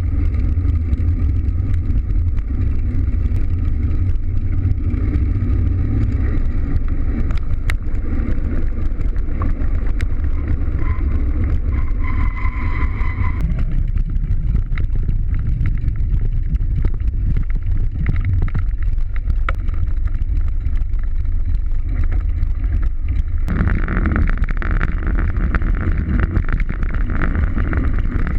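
Wind buffeting the microphone of a GoPro action camera during a bicycle ride: a steady low rumble mixed with road and tyre noise. About 23 seconds in, the noise turns brighter and hissier.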